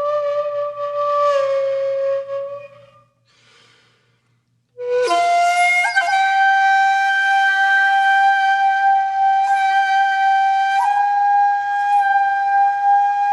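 Flute music playing long held notes: one note fades out about three seconds in, and after a brief near-silent gap a second long sustained note comes in at about five seconds and holds.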